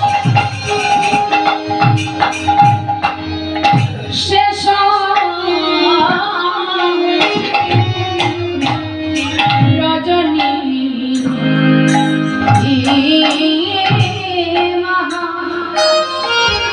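Kirtan devotional music: a hand drum keeps a rhythm under long held drone notes, with sharp cymbal-like strikes throughout.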